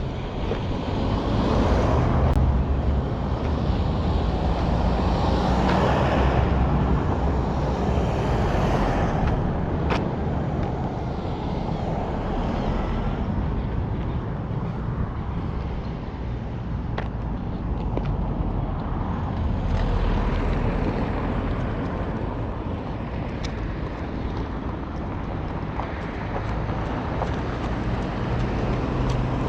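Outdoor road ambience: a steady rumble of traffic, with cars passing that swell and fade a few times.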